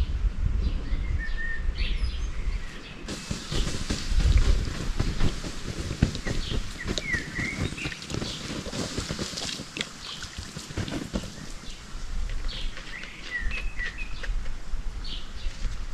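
Small birds chirping in short, scattered calls, over a steady low rumble and many soft clicks and rustles.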